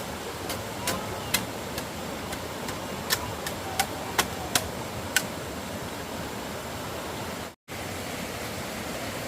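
Steady rushing noise, like rain or running water, with a series of about nine sharp knocks or taps through the first five seconds. The sound drops out for an instant near the end, as at an edit cut.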